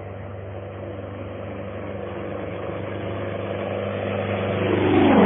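Small plane making a low flyby: its engine grows steadily louder as it approaches, then the pitch drops sharply near the end as it passes overhead.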